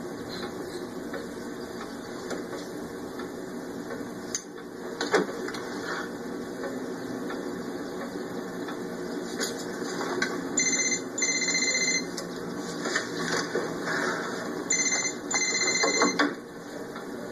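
A telephone ringing in repeated double rings, a short ring then a longer one, starting about ten seconds in and coming round about every four seconds, over a steady low hum and a few scattered knocks.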